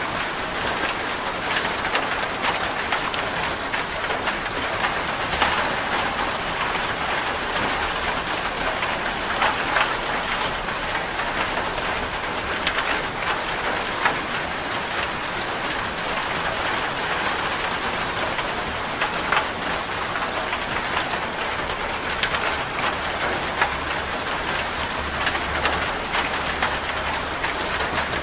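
Steady rain falling on a surface, with many individual drops ticking sharply throughout.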